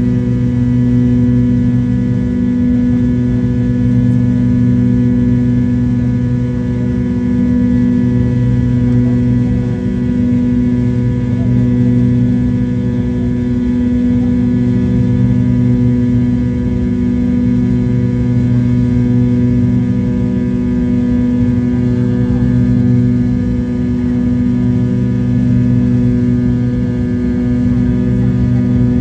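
Steady drone of a McDonnell Douglas MD-83's twin rear-mounted Pratt & Whitney JT8D turbofan engines: a low hum with several steady tones above it that slowly swells and fades every few seconds.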